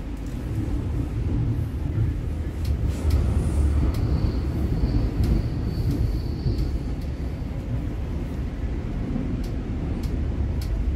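Interior of a moving NSW TrainLink V set intercity double-deck electric train: a steady low rumble of the carriage running on the track. Scattered sharp clicks and rattles sound through it, and a faint high whine runs for a few seconds partway through.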